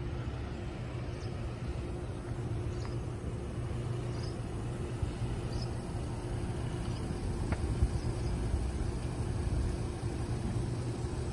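Steady low hum of an idling vehicle engine, with a few faint light ticks.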